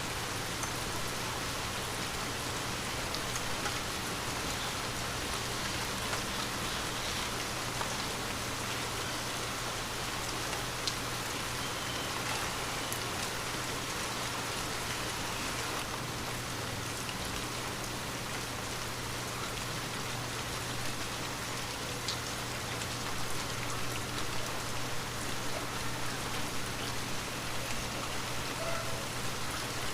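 Light rain falling steadily, an even hiss of drops with a few separate drip ticks.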